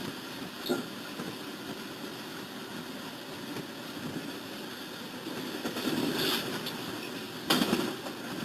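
A train running, a steady noisy rumble that grows louder past the middle, with a sudden loud burst of noise about seven and a half seconds in.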